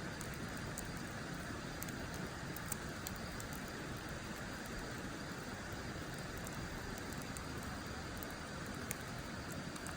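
Wood fire burning in a steel fire pit, crackling with occasional sharp pops over a steady hiss; one louder pop about three seconds in and another near the end.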